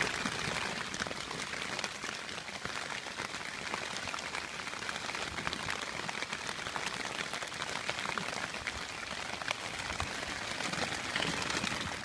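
Heavy thunderstorm rain pelting down on a plastic tarp over a canoe and on the marsh water around it: a dense, steady hiss full of individual drop hits.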